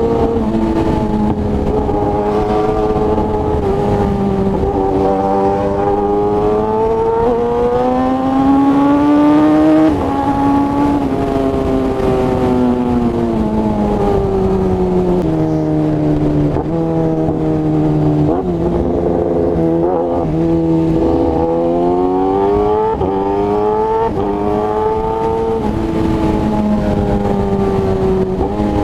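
Kawasaki ZX-10R's inline-four engine running loud through an SC Project exhaust while riding. Its note climbs and falls with the throttle, with sudden steps down in pitch about 10 and 16 seconds in.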